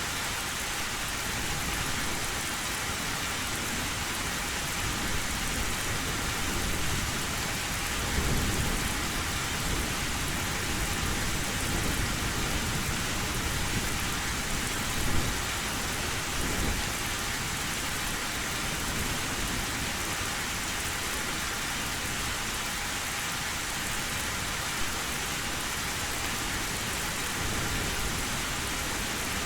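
Heavy rain drumming steadily on an old tin roof, with low thunder rumbling about eight seconds in and again around the middle.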